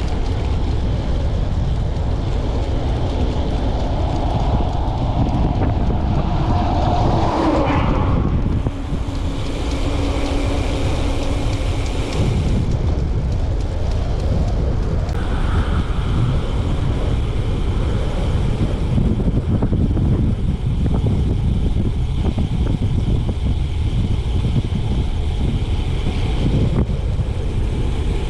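Wind rushing over the microphone over a running vehicle's steady drone. Between about four and twelve seconds in, a faint tone glides down and then holds.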